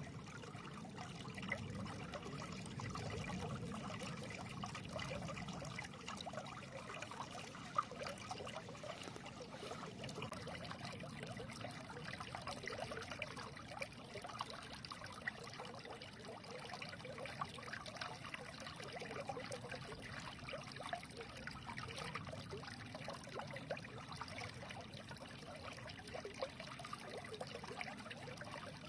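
Small stream trickling and babbling over stones, a steady gurgling wash of running water.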